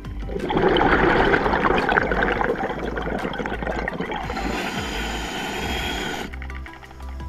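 Underwater bubbling: a dense, gurgling rush of air bubbles past the underwater camera, starting about half a second in and cutting off abruptly about a second before the end.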